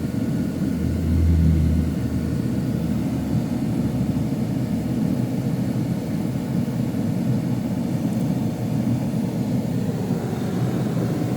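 Steady low rumble of a vehicle heard from inside its cabin, swelling louder for about a second near the start.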